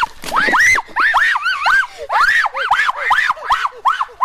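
An animal's rapid, high-pitched calls, each rising then falling in pitch, about three or four a second.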